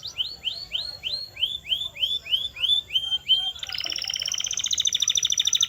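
Canary singing: a run of about a dozen repeated swooping notes, roughly three a second, switching about three and a half seconds in to a fast rolling trill.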